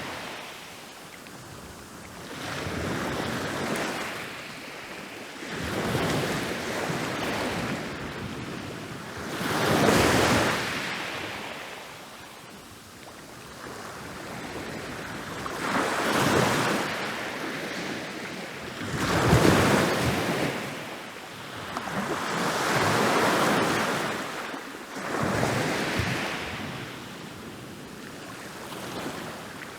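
Ocean waves breaking and rolling up a beach, a rush of surf swelling and fading every few seconds with about seven louder breaks.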